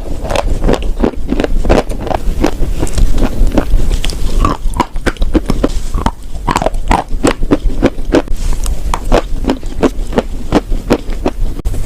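A person chewing and crunching chalk and clay close to the microphone: a quick, irregular run of crisp crunching bites and chews, several a second.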